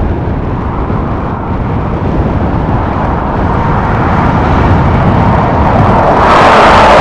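Strong wind buffeting the microphone in a blizzard, a steady low rumble that grows louder and hissier near the end.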